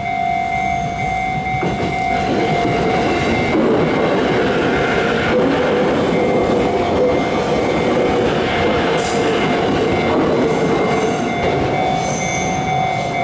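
JR E257 series electric multiple unit running past, a steady loud rail rumble with fixed high-pitched tones held through it.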